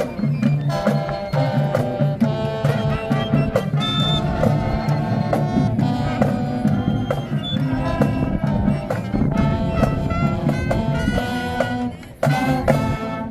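High school marching band playing a brass-and-drum number: horns on held and moving notes over a steady beat of bass drum and snares. Near the end the band drops out for a moment, hits a loud burst, then stops.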